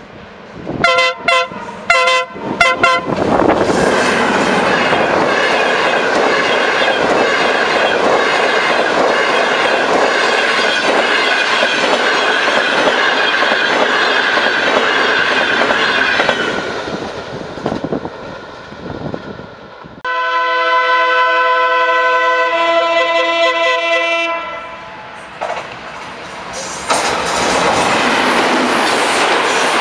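Diesel-hauled passenger train sounding its horn in several short blasts, then passing close with loud steady wheel-and-rail noise and clickety-clack. Later a single long horn blast of about four seconds, then another train rushing past a station platform.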